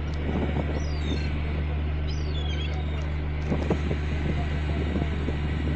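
Steady low drone of a passenger ferry's engine, with seagulls giving several short, high calls over it in the first half.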